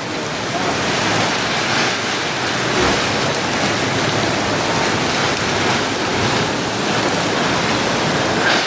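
Heavy rain driven by strong wind: a loud, steady rush of noise.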